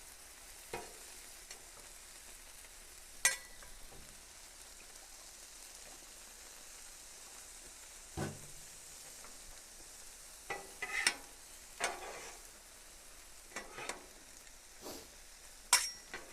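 Chicken, vegetables and noodles sizzling on a hot flat-top griddle with a steady hiss, while metal utensils scrape and clack against the cooking surface every second or two as the food is stirred, more often in the second half.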